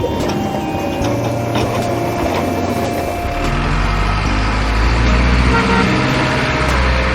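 Truck engine running with a deep rumble that grows louder about three seconds in, with steady tones stepping in pitch above it.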